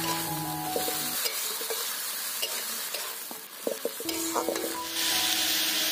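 Water lily stems and soaked chana dal frying in mustard oil in a metal karahi, sizzling steadily as a metal spatula stirs and scrapes them through the pan. A few sharp knocks of the spatula against the pan come a little past halfway.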